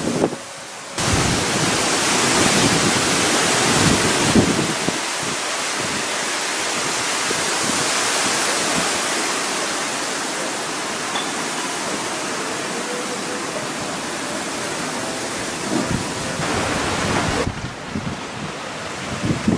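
Typhoon wind and rain: a loud, steady rushing noise with wind gusting on the microphone, dropping briefly at the start and easing in the top range near the end.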